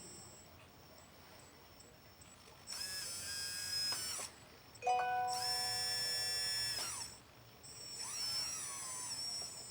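Small electric motor of an RC hydraulic construction model whining in three bursts of one and a half to two seconds each. The first two hold a steady pitch and the third slides in pitch.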